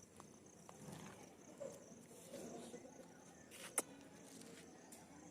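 Faint, steady chirring of crickets or similar insects, with a single sharp click a little under four seconds in.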